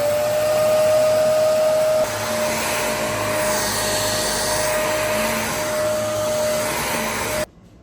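Vacuum cleaner running on carpet: a steady motor whine, just settling to pitch after switch-on, over a rushing suction noise. It cuts off abruptly near the end.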